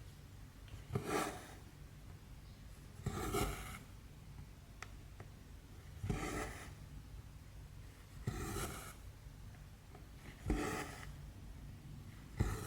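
Needle and thread being pulled through cross-stitch fabric: a short rasp of thread drawing through the cloth about every two seconds, six in all.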